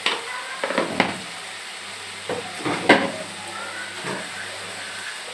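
Onion, tomato and spice masala frying in oil in a kadai: a steady sizzle with a few short, louder crackles, the loudest about three seconds in.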